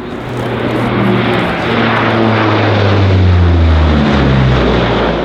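Propeller aircraft flying low past, loud, its engine drone building and then falling in pitch as it goes by.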